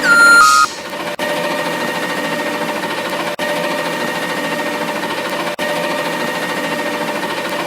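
A machine running steadily with a high whine and a fast rattle. About the first half-second it is topped by a louder squeal that falls in pitch, steps down twice, then stops.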